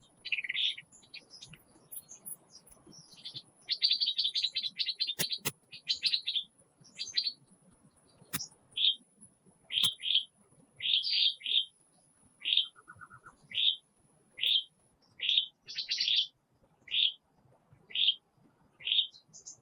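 A bird chirping: a quick chattering run of notes about four seconds in, then short single chirps repeated about once a second.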